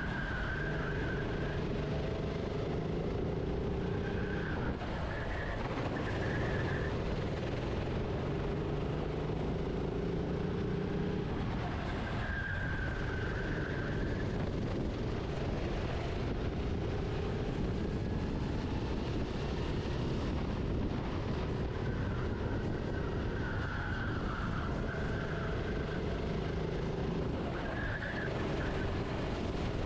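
Go-kart engine heard onboard, its pitch rising along the straights and dropping off for the corners every several seconds.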